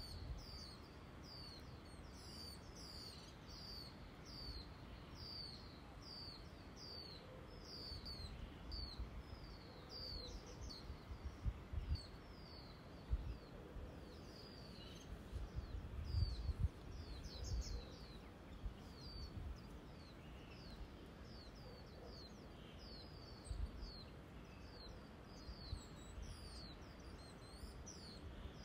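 Birds chirping steadily, a quick series of short, high, falling chirps, several a second. Gusts of wind rumble on the microphone, strongest in the middle.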